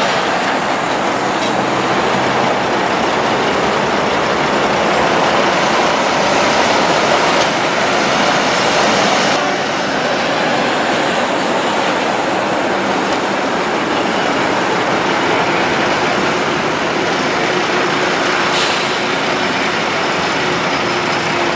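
Heavy haulage trucks on the move: a loud, steady rush of engine and tyre noise, easing slightly about nine seconds in.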